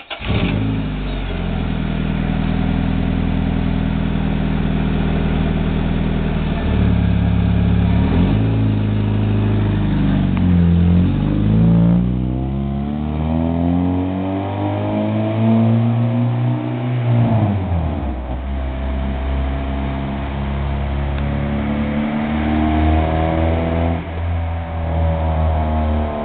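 2001 Honda Accord four-cylinder engine through a K2 header, stock cat and Greddy Evo piping to a large truck exhaust tip, idling and then revved several times: short blips partway through, a longer climb in pitch that drops back about two-thirds of the way in, and another rev near the end.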